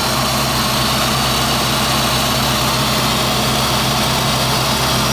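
1990 Corvette L98 5.7-litre V8 idling steadily, with no audible knocks or ticks.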